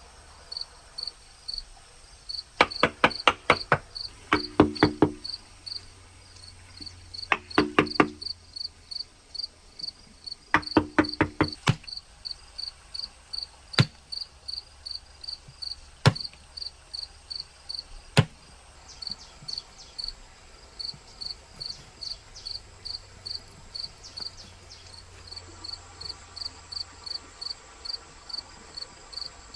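An insect chirping steadily in a high, even rhythm of about four chirps a second. Over the first half come several short bursts of rapid knocking, then a few single sharp clicks.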